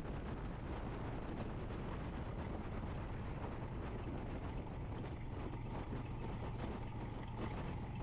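Light single-engine piston airplane's engine running at low taxi power, a steady drone with a low hum, heard inside the cockpit.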